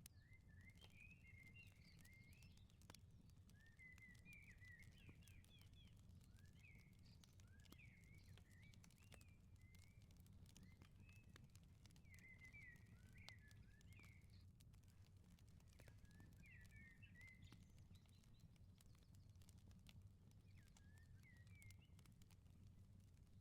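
Faint outdoor ambience: a small bird sings short chirping phrases every couple of seconds over a steady low rumble, with faint scattered clicks of a crackling firepit.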